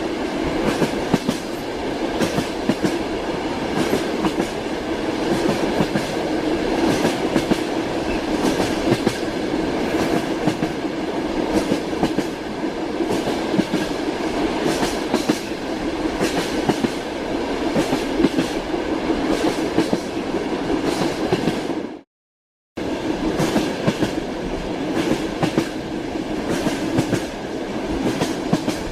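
Train running on the rails, its wheels clattering with a steady stream of clicks and knocks over the track, heard from inside a moving railway carriage. The sound cuts out completely for under a second about three-quarters of the way through.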